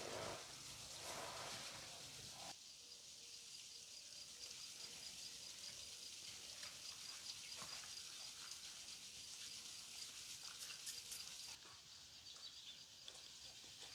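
Faint rural outdoor ambience with a high chirp repeated several times a second.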